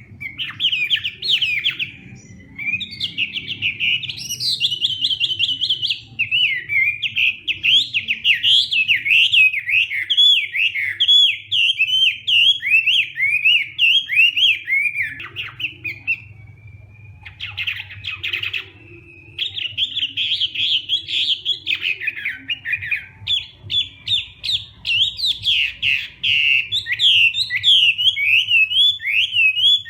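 Chinese hwamei singing a long, fast run of varied whistled phrases, with brief lulls a little past halfway.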